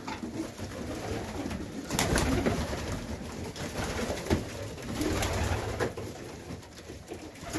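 Highflyer pigeons cooing in a loft: low, pulsing coos with a few sharp knocks and rustles, the loudest about two seconds in.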